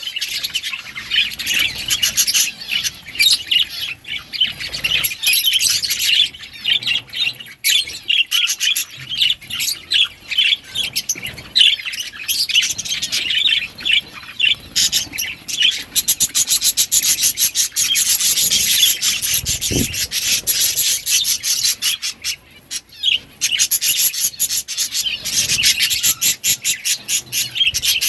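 A flock of budgerigars chattering and chirping continuously, a dense run of quick, high calls.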